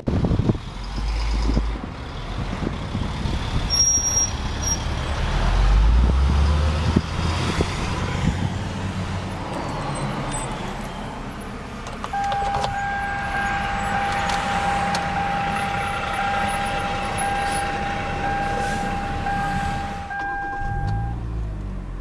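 Road traffic from an adjacent highway, with low rumbles of passing vehicles about a second in and again from about five to seven seconds, over which a 2011 Hyundai Elantra idles after being started. A steady high tone holds from about twelve seconds in until just before the end.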